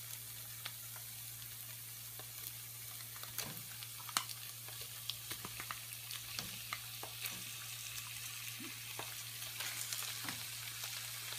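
Ground masala paste frying in ghee in a stovetop pan with a steady soft sizzle and scattered crackles. Raw prawns are tipped in about halfway and stirred with a silicone spatula, adding light scrapes and taps.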